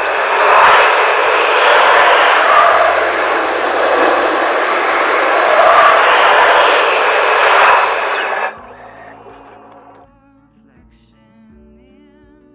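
Automatic robotic car wash running: a loud, even rushing noise that swells and eases several times, then cuts off abruptly about eight and a half seconds in.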